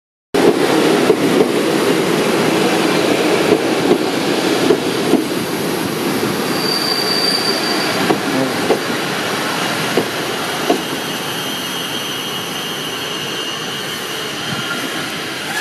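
PKP Intercity passenger coaches rolling past on the platform track: a steady rumble of steel wheels on rail, with scattered clicks over the rail joints and one short high wheel squeal about halfway through.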